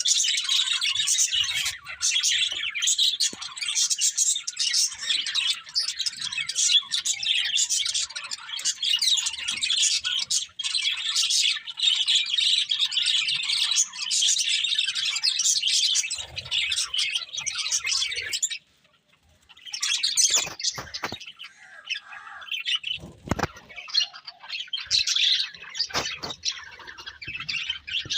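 Budgerigars chattering and warbling: a dense, continuous stream of high chirps that breaks off suddenly about two-thirds through, then resumes as sparser chirps.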